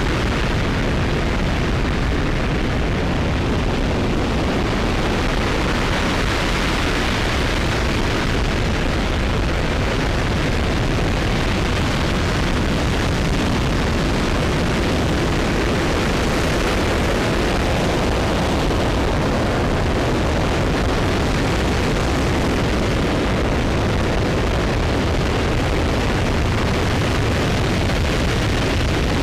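RS-25 liquid-hydrogen rocket engine firing in a ground test: a loud, steady roar with no breaks or changes.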